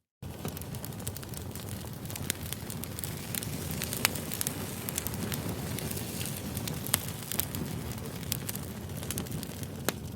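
Crackling campfire: a steady rushing hiss of burning wood with sharp pops and snaps scattered through it, starting abruptly just after a moment of silence.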